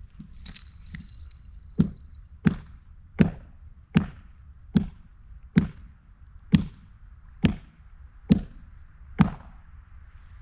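A run of ten sharp, hard blows, one every 0.7 to 0.9 seconds, starting about two seconds in. Each has a short ringing tail. Two faint taps come before them.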